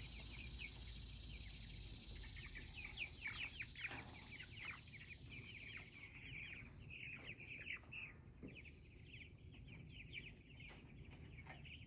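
Young Cornish Cross meat chickens peeping: many short, high, falling peeps, densest a few seconds in and then thinning out.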